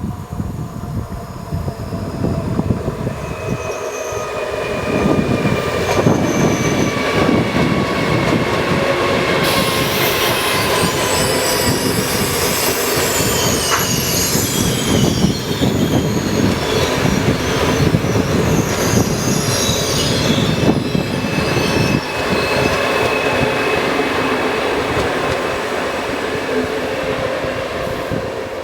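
Electric train passing slowly through a speed restriction: a steady rumble and rattle of wheels on rail, with high-pitched squeals and several thin whining tones that slowly fall in pitch.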